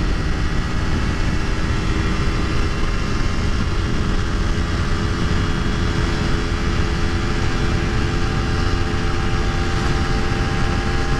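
Honda CBR250RR motorcycle engine running at steady revs while cruising at speed, with wind rushing over the helmet microphone.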